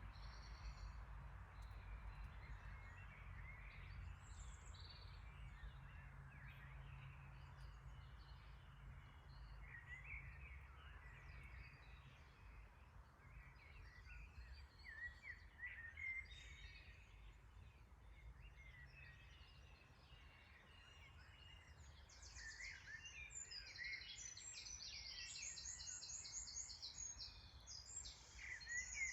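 Faint birdsong: scattered chirps over a steady low rumble, turning into busier, rapid trilled high notes in the last several seconds.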